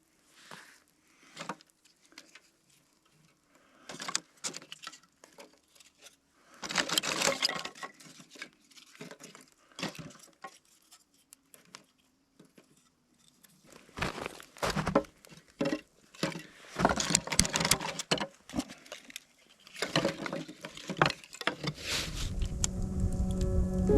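Irregular clinking, clicking and rustling, in uneven bursts, the handling noise of hands-on work with gear. Background music fades in near the end.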